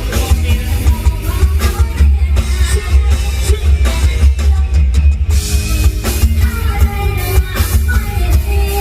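Live Thai luk thung string band music played loud through a sound system, with very heavy bass, a drum kit and a singer.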